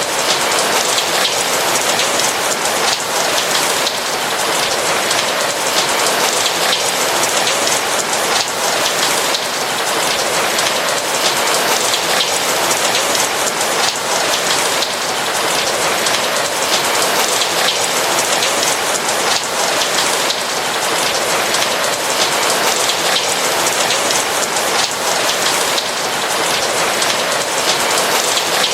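Steady rain falling: a dense, even hiss of countless small raindrop impacts.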